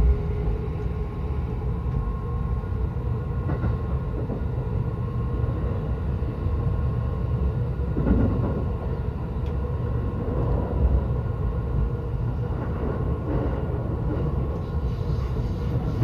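Electric commuter train running, heard from inside the passenger car: a steady low rumble of wheels on rail with a faint steady hum above it.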